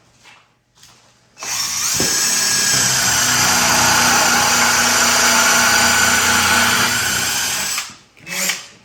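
Power drill driving a 3-inch screw into a wooden door frame, its motor running steadily for about six seconds, then stopping.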